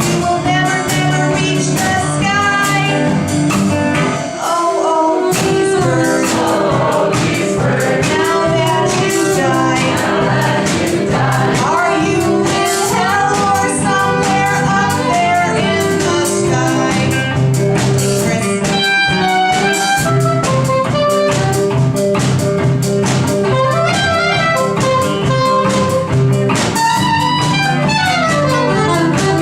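A small live band playing a song, with a singer over guitar, saxophone and drums. The low end drops out briefly about four seconds in.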